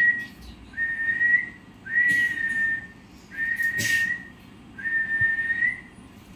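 Parrot whistling a single steady note over and over, each about a second long, ending with a slight upward lift, roughly every one and a half seconds. A sharp click comes during the fourth note.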